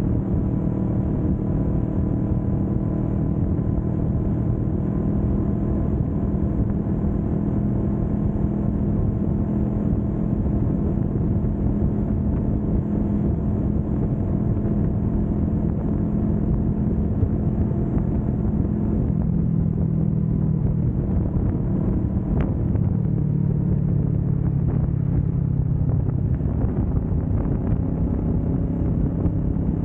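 Kawasaki Vulcan S 650's parallel-twin engine running steadily at cruising speed, with wind and road noise; the engine note drops in pitch about two-thirds of the way in as it slows.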